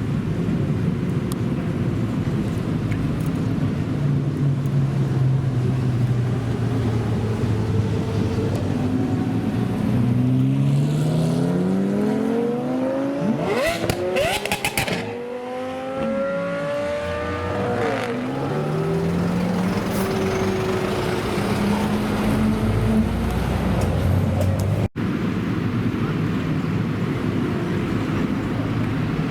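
Supercar engines running, with an engine revving up in a rising pitch about a third of the way in, a few sharp cracks as it peaks, then another engine climbing in pitch as it accelerates.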